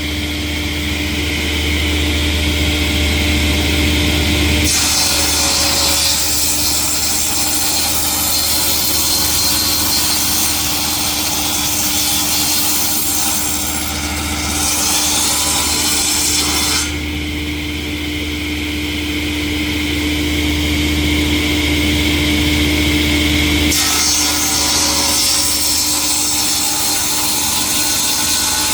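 Industrial sawmill saw cutting through a log: a continuous machine hum under a dense hissing rasp of blades in wood. The sound changes abruptly about five seconds in and twice more later.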